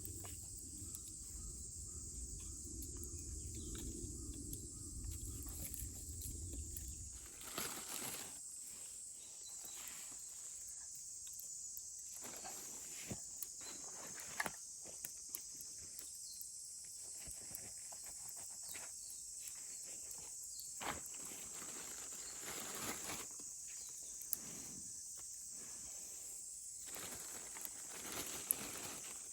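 Steady high-pitched chorus of summer insects, with scattered rustling and clicks close by. A low rumble is under the first seven seconds and cuts off suddenly.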